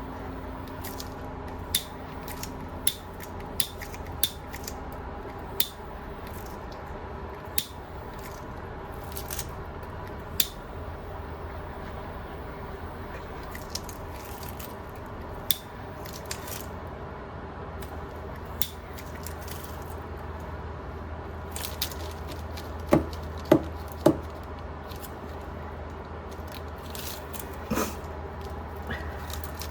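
Light, scattered clicks and taps of small objects being handled over a steady low hum, with three sharper clicks in quick succession about two-thirds of the way through.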